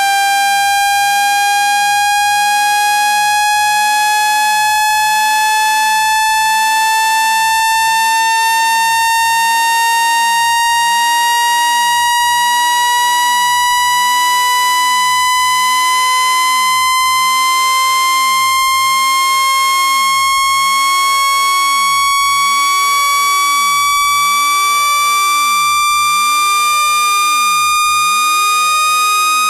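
Synthetic buzzy electronic tone, rich in overtones, slowly and evenly rising in pitch at a steady loudness: a speaker-cleaning sweep tone played to shake dust out of a phone speaker.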